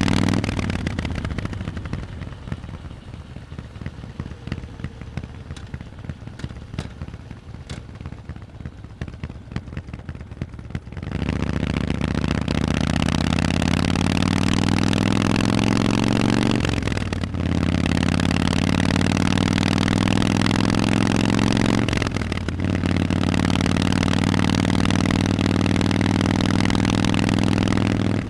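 Harley-Davidson Forty-Eight's air-cooled V-twin through loud Vance & Hines exhausts. It drops to a quiet, pulsing low rumble for about ten seconds. Then it pulls away hard, its pitch rising, with two short breaks in the sound that fit gear shifts.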